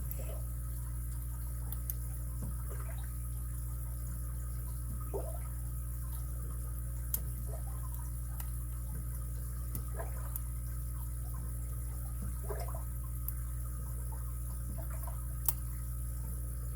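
Faint, scattered clicks and short scrapes of a lock pick and tension wrench working the pin stack inside a padlock keyway, over a steady low electrical hum.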